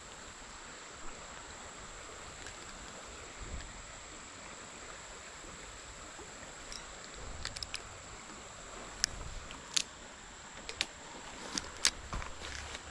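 Creek water running steadily under a constant high-pitched insect drone. A scatter of short sharp clicks and taps comes in the second half.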